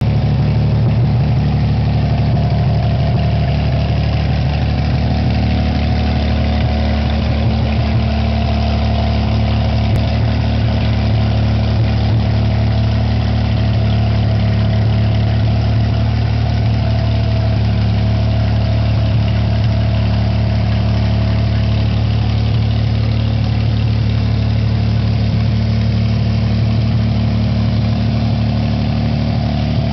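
Mercruiser 4.3-litre V6 marine engine idling steadily.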